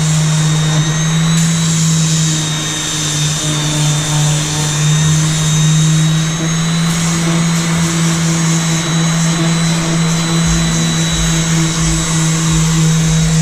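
Electric power sander running steadily on a boat hull, a constant low motor hum under a high whine and gritty sanding hiss.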